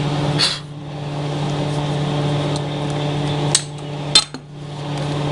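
Small Century MIG welder running with a steady hiss and hum, broken by three sharp clicks, each followed by a short drop before it resumes.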